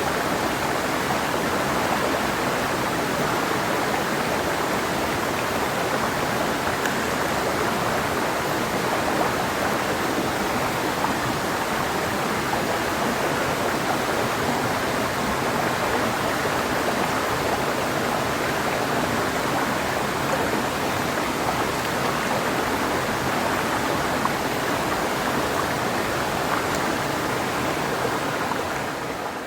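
Clear mountain river flowing over rocks: a steady, even rushing of water that fades down near the end.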